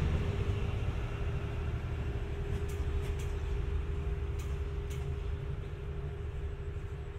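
Diesel train engine running with a low rumble and a steady hum, gradually fading. A few faint ticks sound in the middle.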